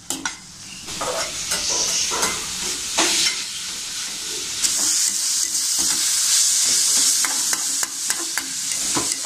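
Marinated chopped chicken and vegetables sizzling in hot oil in an aluminium kadai, with a metal slotted ladle scraping and clicking against the pan as it is stirred. The chicken is being sautéed until about three-quarters cooked. The sizzle gets louder about halfway through.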